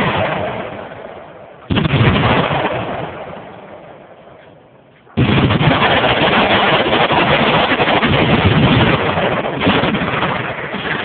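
Loud gunfire: two sudden blasts, each fading over a couple of seconds. About five seconds in, a dense, continuous stretch of rapid machine-gun fire holds for around four seconds, with another surge near the end.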